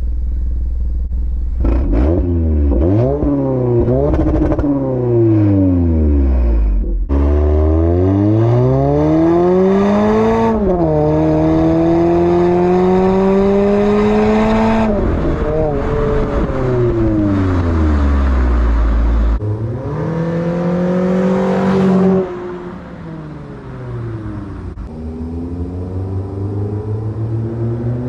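Toyota Camry engine through an aftermarket exhaust, revved again and again, its pitch climbing and falling with each rev. Several short clips are spliced together, with sudden changes about a quarter of the way in and again past two-thirds.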